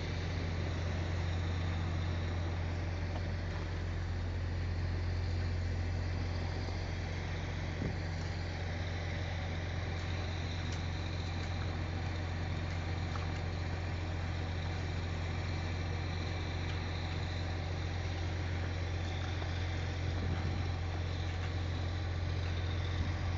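Concrete pump truck's diesel engine running steadily while it pumps concrete, a constant low drone with no change in pace.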